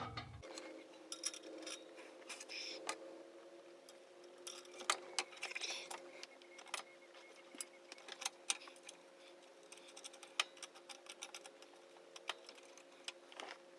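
Faint, scattered light clicks and clinks of hand tools and exhaust parts being handled while a mid pipe is fitted to a downpipe under a car, over a faint steady hum.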